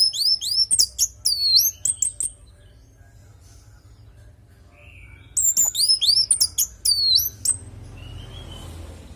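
Orange-headed thrush (anis merah) singing: two bursts of rapid, high whistled notes that sweep up and down, the first from the start, the second after a pause of about three seconds.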